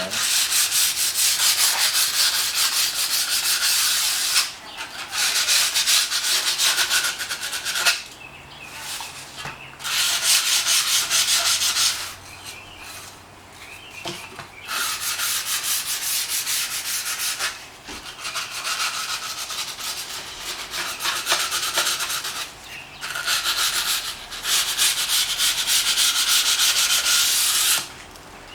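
The cut edge of a small piece of mirror glass being sanded down to take off the sharp edge, a gritty rubbing in about six spells of a few seconds each with short pauses between.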